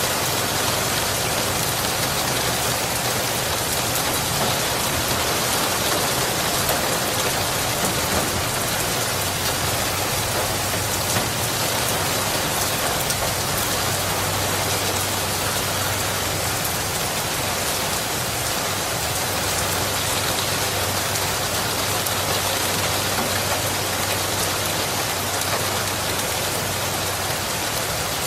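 Rain falling steadily, an even, unbroken hiss of drops on a surface.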